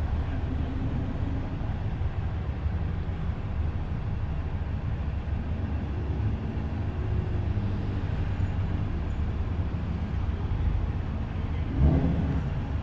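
Car engine running at low speed with a steady low rumble, briefly getting louder near the end.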